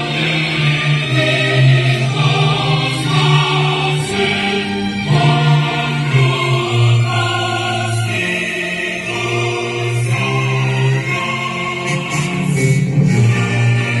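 A choir singing in long, held notes that change every second or two.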